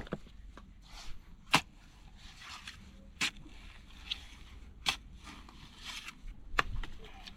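Scraping and digging at a mud crab's hole in mud, with sharp clicks or knocks every second or two and softer scraping between them.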